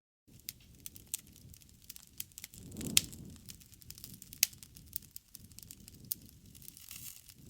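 Wood fire crackling, a dense run of small snaps and pops over a low rumble of flame. The rumble swells about three seconds in and peaks in one loud pop, and another sharp pop comes about a second and a half later.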